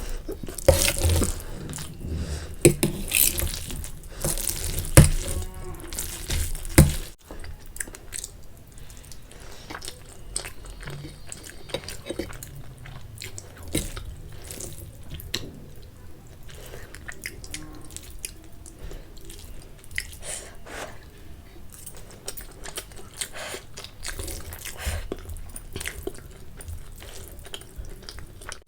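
Close-miked wet mouth sounds of eating spicy Maggi noodles: irregular chewing with many small clicks and smacks, louder for the first seven seconds or so, then softer.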